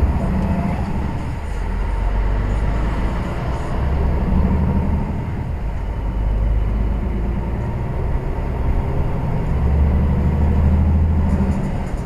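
Heavy goods lorry on the move: a steady low drone of engine and road noise that swells and eases slightly.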